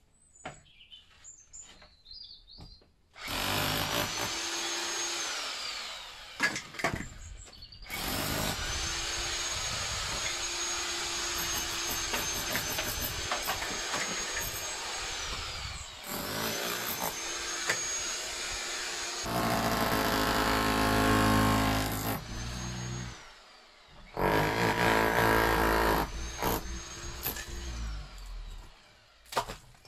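Bird chirps, then an electric power saw cutting old timber. Its motor whines up to speed, runs steadily and winds down, about five times. Two stretches are louder and rougher, where it bites into the wood.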